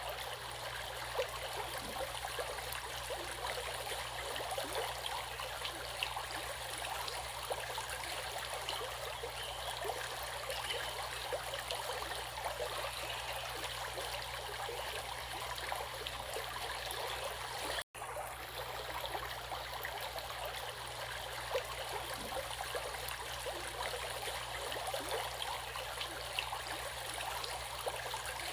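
Running water of a stream, a steady burble of many small irregular splashes. The sound cuts out for an instant about two-thirds of the way through.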